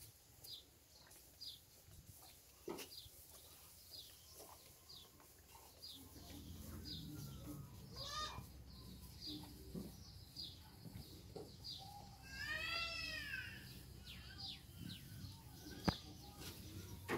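Small birds chirping, a short high chirp repeated about every half-second to a second. A rising-and-falling call comes about eight seconds in, and a louder warbling bird call around thirteen seconds. A sharp click comes near the end.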